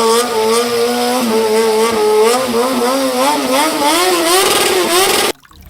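Racing motorcycle engine sound, running at a steady pitch and then revving up and down in quick rises and falls, cutting off abruptly near the end.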